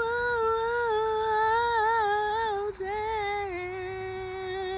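A woman's voice singing unaccompanied, drawing out the final notes with vibrato and stepping down in pitch, with a short breath about halfway through.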